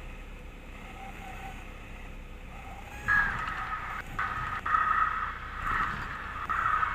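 The Cessna 172M's four-cylinder Lycoming engine running low and steady in the cockpit audio. From about three seconds in a louder, scratchy burst in the upper-middle pitch comes in with brief breaks and carries on for about four seconds.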